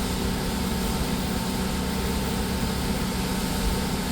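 Steady mechanical hum with an even background hiss, unchanging throughout.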